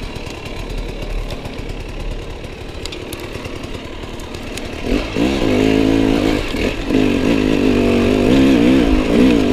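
Enduro motorcycle engine running low and steady, then opened up about five seconds in, its pitch rising and falling with the throttle as the bike rides off.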